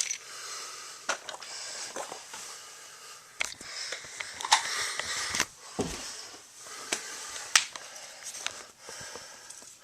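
Faint whir of a battery-powered TOMY Trackmaster toy train with scattered, irregular clicks and knocks from the plastic toy track and pieces.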